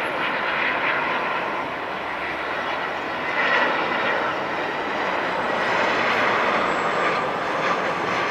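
Jet airliner on landing approach, its engines making a steady rushing noise with a faint whine.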